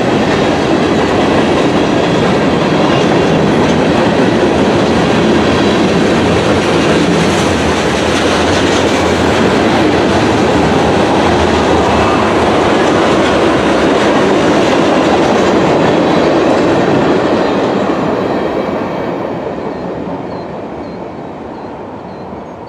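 Freight train rolling past, a loud, steady rumble and clatter of wheels on rail that fades away over the last few seconds.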